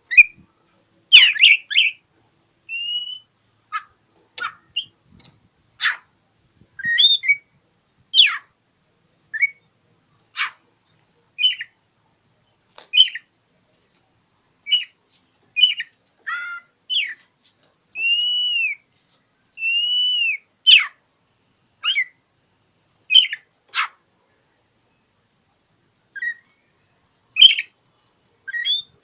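Oriental magpie-robin (kacer) singing in short separate notes, some whistled and some sharp and harsh, with brief pauses between them; two longer arched whistles come about two-thirds of the way through.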